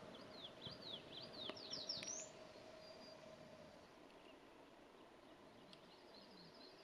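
Faint songbird song: a quick series of high, slurred chirps that speeds up and ends on a higher rising note about two seconds in, then a fainter run of chirps near the end.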